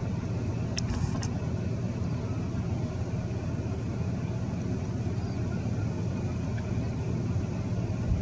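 Steady low rumble of a car engine running, with a couple of faint clicks about a second in.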